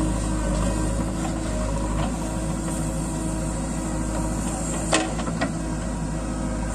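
Diesel engine running steadily at low revs, with two sharp knocks about five seconds in.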